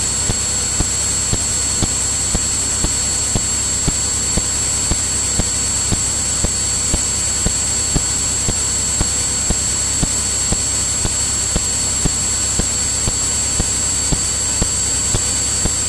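Steady cabin noise of a Cirrus single-engine piston aircraft in cruise, engine and propeller heard through the cockpit intercom, with a thin high whine and light regular ticks over it.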